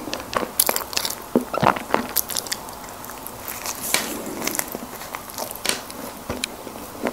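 Close-miked eating: biting into and chewing soft packaged snack cakes, with irregular sharp clicks and smacks several times a second.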